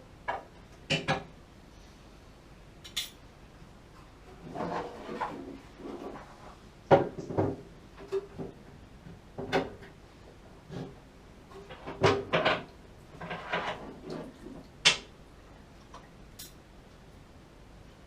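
Irregular clatter and knocks of small metal parts and tools being handled and set down, a few with a brief ring.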